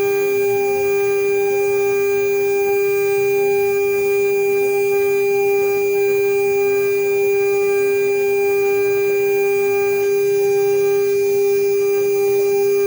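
CNC router spindle running with a steady, unchanging whine while milling a marine aluminium seal plate.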